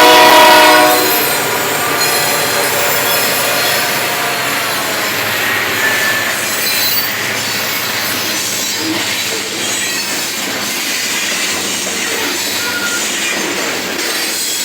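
A locomotive horn cuts off about a second in, then the loaded cars of a stone train roll steadily past with a steady rumble and clatter of wheels on rail, and brief faint wheel squeals now and then.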